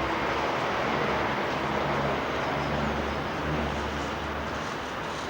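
Street traffic: a motor vehicle's engine rumbling low as it passes over a steady wash of road noise, the rumble fading about four and a half seconds in.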